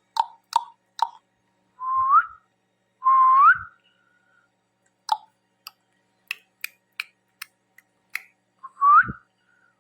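Ring-necked parrot whistling: three short whistles, each rising at the end, with sharp clicks in between.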